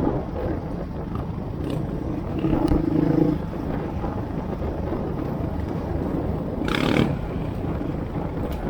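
Trail motorcycle engines running in a steady low rumble, rising briefly around three seconds in, with a short louder burst about seven seconds in.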